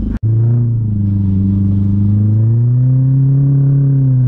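Mercedes W203 C-Class's supercharged four-cylinder engine pulling under load, heard inside the cabin while the car drives on an ice track. The sound breaks off for a moment just after the start. The engine note then climbs slowly and eases back down near the end.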